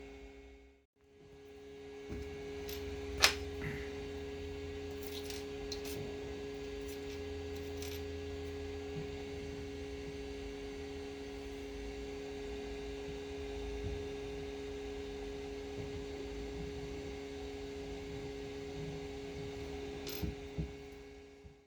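Steady electrical hum on two fixed tones, with one sharp click about three seconds in, a few faint ticks, and a couple of clicks near the end.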